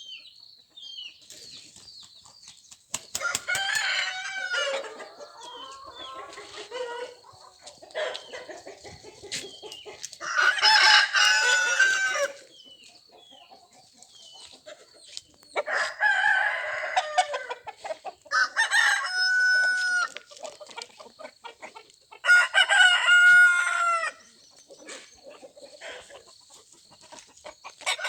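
Desi roosters crowing, about five long crows spread through, with quieter clucking from the flock between them.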